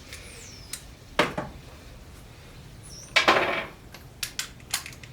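Metal hand tools clinking and knocking on an engine block: a sharp clank about a second in, a longer ringing clank around three seconds, then a quick run of light clicks near the end.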